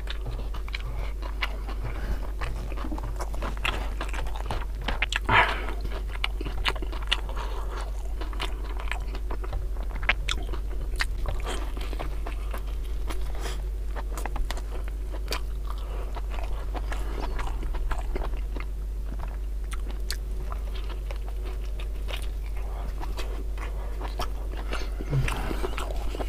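A man chewing and biting mouthfuls of rica-rica beef tongue and rice eaten by hand, picked up close by a clip-on microphone, with many short wet clicks from the mouth throughout.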